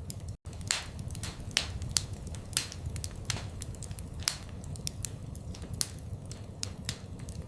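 Wood fire crackling in a fireplace: irregular sharp pops and snaps, several a second, over a low rumble of flames. The sound cuts out completely for a split second about half a second in.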